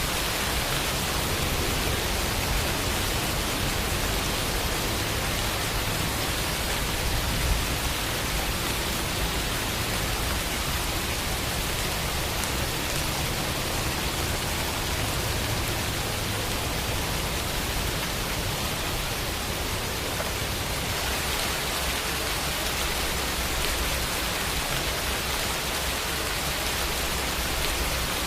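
Steady rain falling, an even hiss of drops with no other sounds.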